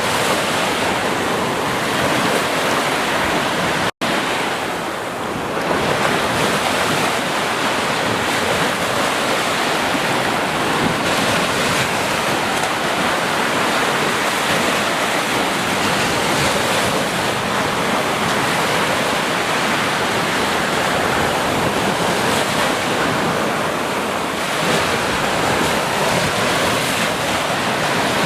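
Ocean surf washing steadily onto a beach. There is a momentary dropout to silence about four seconds in.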